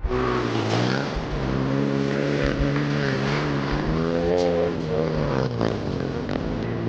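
A 110cc four-stroke pit bike engine running at high revs, its pitch rising and falling repeatedly as the throttle is opened and backed off.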